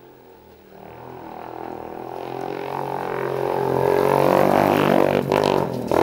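Engine exhaust blown through a vacuum hose fitted to the exhaust pipe, giving a droning, horn-like tone with many overtones. It swells steadily louder from about a second in, peaks near the end, then dips briefly.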